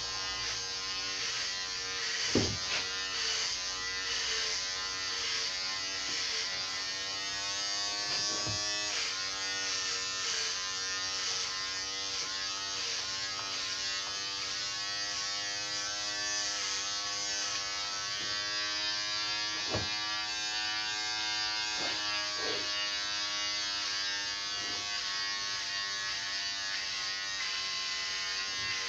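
Electric hair clippers buzzing steadily as they cut, the pitch dipping and recovering slightly with the load, with a few brief knocks.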